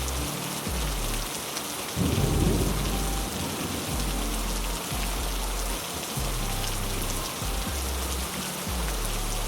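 Heavy rain falling steadily, with a low rumble of thunder about two seconds in.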